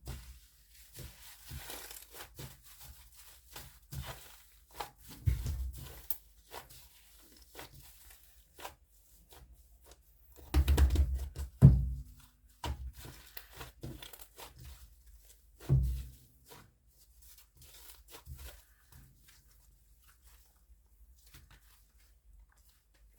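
Fluffy foam slime being squeezed, stretched and pressed by hand: a steady run of small crackles and pops, with a few louder squishes about five, eleven and sixteen seconds in.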